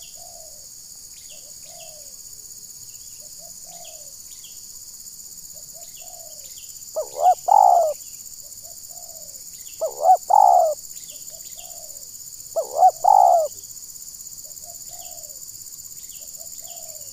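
Spotted dove (terkukur) cooing: three loud phrases about three seconds apart, each opening with quick short notes and ending in a longer rolling coo, with softer single coos in between.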